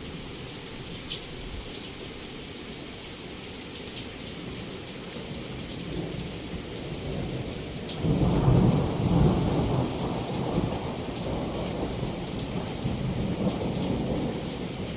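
Heavy rain falling steadily, its hiss flecked with small drop ticks. About eight seconds in, a roll of thunder breaks in suddenly with a deep rumble, loudest for a couple of seconds, then rumbles on more softly under the rain.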